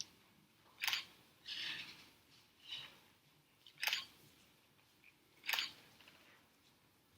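Three sharp, separate clicks a second or more apart, with two softer rustles between the first two.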